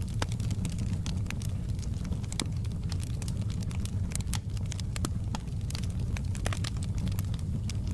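Wood fire crackling and popping in a fireplace, with many irregular sharp pops over a steady low rumble of burning.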